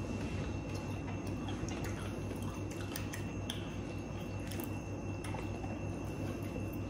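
People chewing food, with faint mouth sounds and small scattered clicks, over a steady low hum.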